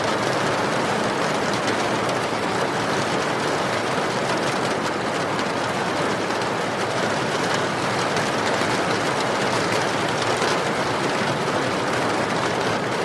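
Steady rain falling, an even wash of many small drops that keeps up without a break.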